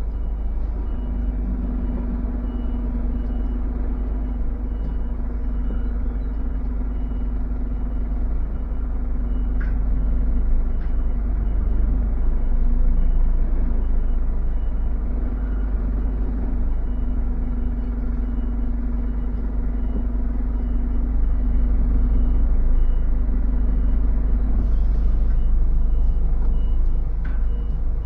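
HGV diesel engine running under the cab during slow manoeuvring into a parking bay, a steady low rumble that rises and eases with the throttle, with a faint high reversing alarm beeping evenly throughout.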